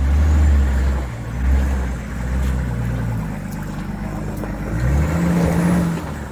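Four-wheel drive's engine pulling at low speed up a rocky track, revving higher about five seconds in, then dropping off near the end.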